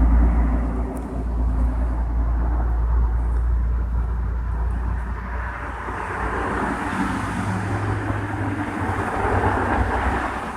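Road traffic: a steady low rumble, then the noise of a passing vehicle swelling over the second half.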